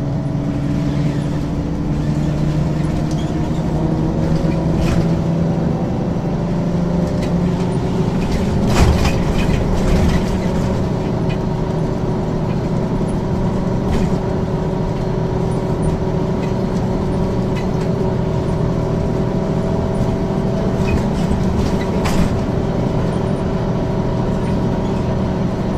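Diesel engine of a 1994 Ikarus 435 articulated city bus with ZF automatic gearbox running under way, its engine note rising and falling as the bus speeds and slows. A few short knocks and rattles, the loudest about nine seconds in.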